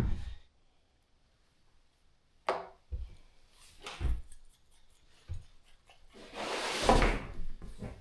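Objects being handled in a small room: a handful of separate knocks, then a longer rustling scrape about six to seven and a half seconds in.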